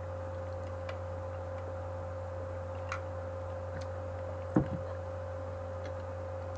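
Steady low hum with a few faint ticks, and one louder soft knock about four and a half seconds in.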